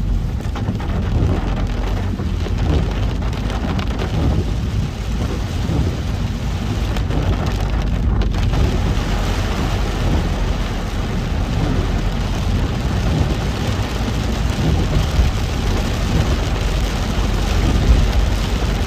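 Heavy rain falling on a moving car, over a steady low rumble of the car on the road.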